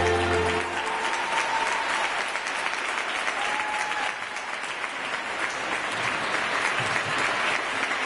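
Audience applauding as the show music stops, its last held note cutting off about a second in.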